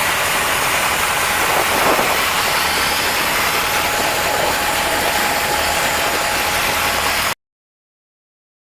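The 1970 AMC AMX's 401 V8 engine running steadily, most likely at idle. The sound cuts off abruptly about seven seconds in.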